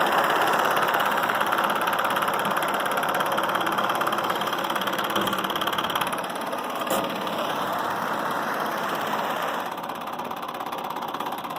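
Small all-metal Stirling engine running steadily at a fast clatter, heated by a rocket stove. It gets a little quieter in the second half, with one short tick near the middle.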